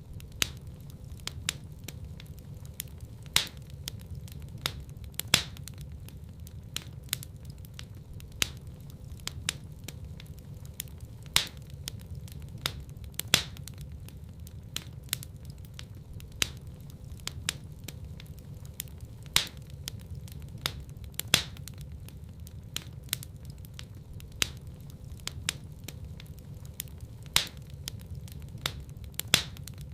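Wood fire burning in a fireplace: irregular crackles and pops over a steady low rumble, with a few louder snaps spread through.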